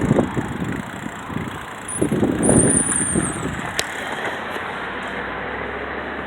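Wind buffeting the phone's microphone while riding a bicycle, with gusts near the start and about two seconds in, then steadier, plus one sharp click near the middle.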